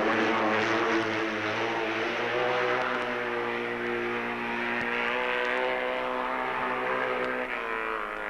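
Racing motorcycle engine held at high revs, giving one sustained note that sags slightly in pitch and shifts again near the end.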